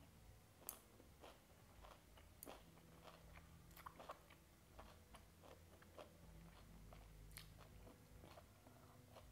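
Faint, close-miked chewing and crunching of a banana flower and raw beef salad, with a string of short, sharp wet mouth clicks.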